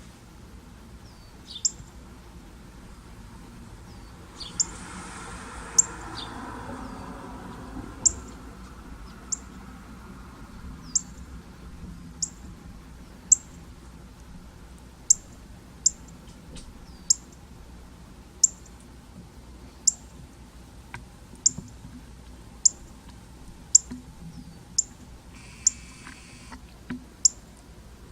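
A bird repeating a single short, high-pitched chirp about twenty times, one every second or two. A soft rushing hiss rises for a few seconds about five seconds in.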